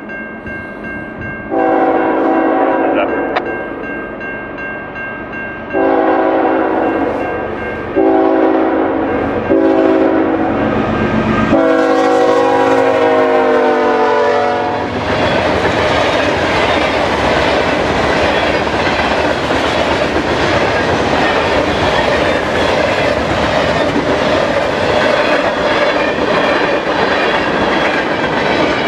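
Diesel freight locomotive's horn sounding a series of blasts as the train approaches, the last long blast dropping in pitch as the locomotive passes close by. Then the steady rumble and clickety-clack of freight cars rolling past.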